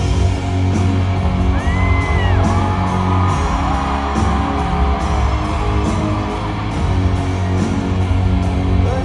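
A live rock band playing loudly, with heavy bass notes, a steady drum and cymbal beat, and a high gliding tone that rises and falls about two seconds in.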